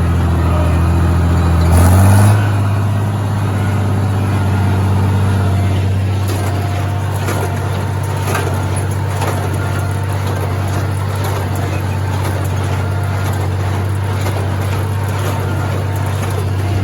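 International Harvester 706 tractor's six-cylinder engine running steadily under load while pulling a working hay baler, heard from the driver's seat. About two seconds in the engine note steps up in pitch with a brief louder surge, then runs steady again.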